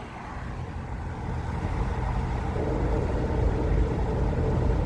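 Car engine and road noise heard from inside the cabin, a low rumble growing steadily louder.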